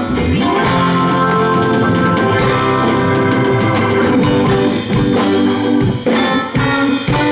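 Live rock band playing an instrumental passage: electric guitars, keyboards, bass and drum kit, with several heavy drum hits in the last couple of seconds.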